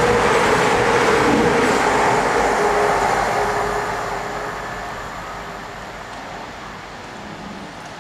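Diesel train running through the station, loud with a steady engine note for the first few seconds, then fading away as it draws off.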